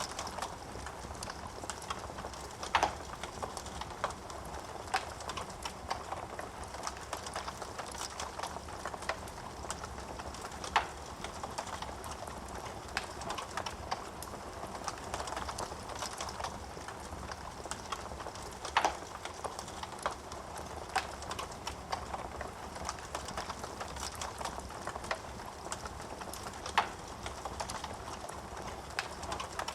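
Wood fire in a fireplace crackling: a steady soft hiss scattered with irregular small pops and ticks, and four louder sharp pops about eight seconds apart.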